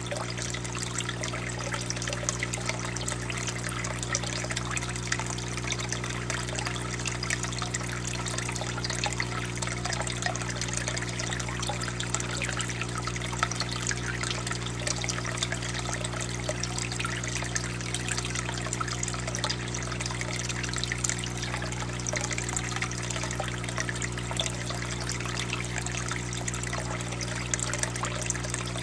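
Flame burning in a tornado tabletop fire pit: a steady soft rush with fine crackling throughout, over a steady low hum.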